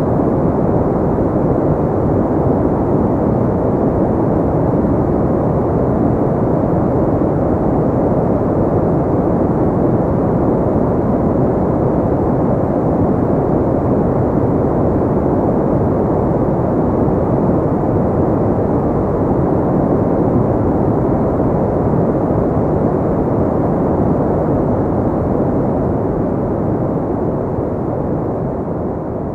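Steady white noise with its upper range filtered away, heard as a low, muffled hiss with no pitch or rhythm. It begins to fade down near the end.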